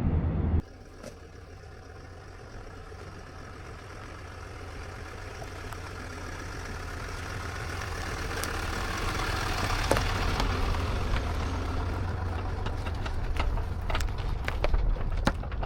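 A vehicle's engine with a steady low hum, and a rushing noise that builds gradually for about ten seconds, then holds. A few sharp clicks come near the end.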